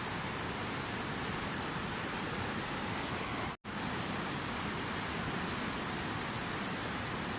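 Steady rushing water, an even unbroken hiss like a waterfall or fast stream, cut off for a split second about halfway through before carrying on unchanged.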